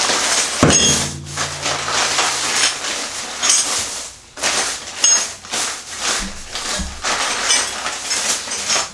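Crinkly rustling and handling of a part's plastic packaging, in irregular spells with a short pause about four seconds in.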